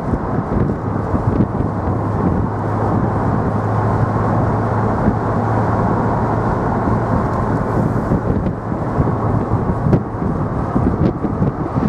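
BMW Z3 2.0 roadster's straight-six engine running at a steady cruise, a low even drone, with tyre and wind noise heard from inside the moving car.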